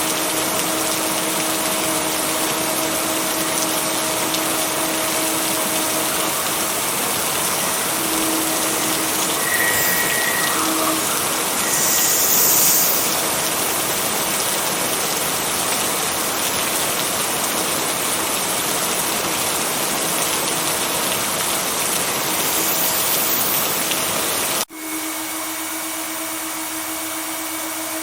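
Steady rain, an even hiss with a faint constant hum beneath it, briefly louder about twelve seconds in. About three seconds before the end the sound cuts out for an instant and the rain carries on quieter, as at a splice in a looped recording.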